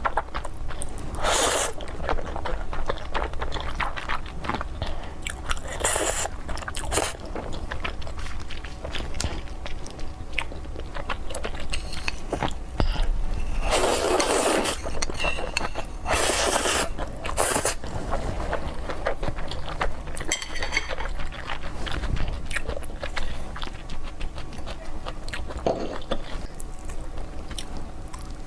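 A person eating seafood close to the microphone: chewing and crunching, with many small clicks and a few louder bursts of biting.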